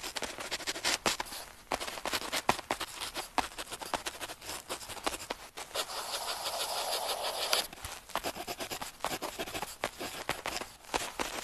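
Pen tip scratching on paper in handwriting: quick short strokes and taps, with one longer continuous scratching stroke of about a second and a half, a little past halfway.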